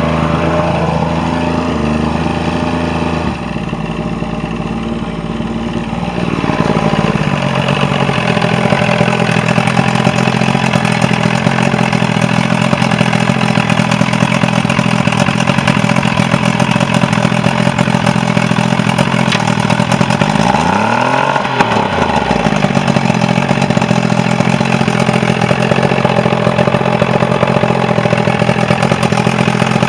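Mercury 90 outboard motor running steadily, now starting and running after a no-start problem. Its speed shifts about three seconds in and settles again a few seconds later, with a brief dip and recovery in engine speed around twenty seconds in.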